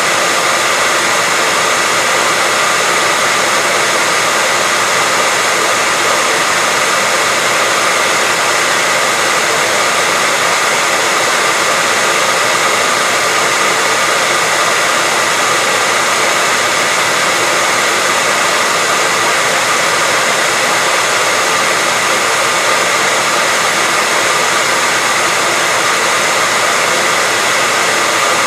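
Hair dryer running steadily: a continuous even rush of air with a faint steady whine.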